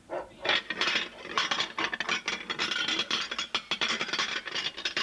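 A rapid clattering rattle of many small knocks close together that sounds like bones rattling, though it comes from something ordinary. It starts just after the beginning.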